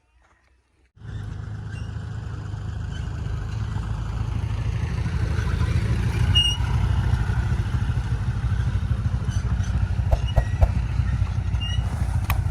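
Heavy diesel machine engine running steadily with a deep, loud rumble that comes in suddenly about a second in.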